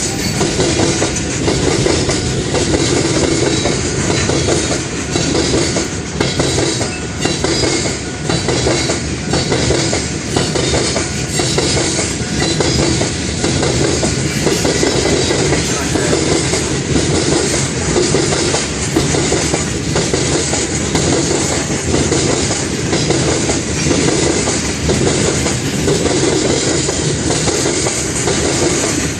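Union Pacific rock train's freight cars rolling past steadily, wheels clacking over the rail joints.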